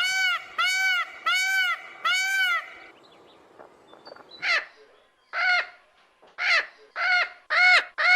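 A bird giving repeated loud calls, four evenly spaced in the first two and a half seconds. After a short gap a second run of calls starts about four and a half seconds in and comes quicker toward the end.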